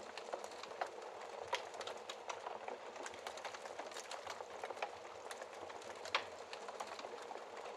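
Wood fire crackling in a fireplace: a steady soft hiss with irregular sharp pops and snaps, a louder pop about a second and a half in and another near six seconds.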